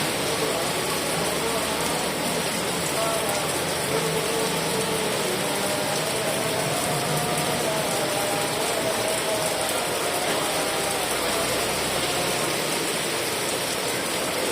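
Heavy rain falling steadily, an even hiss, with a faint wavering tone running underneath.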